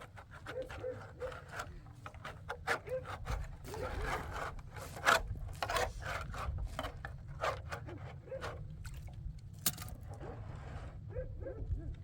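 Irregular scraping and rubbing strokes mixed with many sharp knocks.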